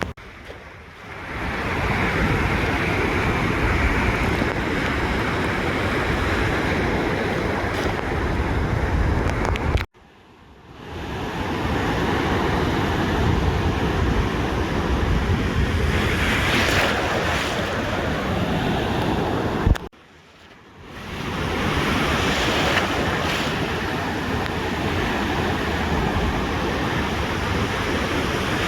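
Ocean surf washing on a beach, with wind buffeting the microphone. The sound cuts out abruptly about every ten seconds and swells back within a second or so.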